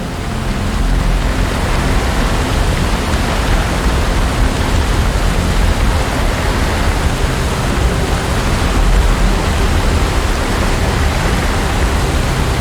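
Loud, steady rush of fast-flowing river water, with a strong low rumble underneath.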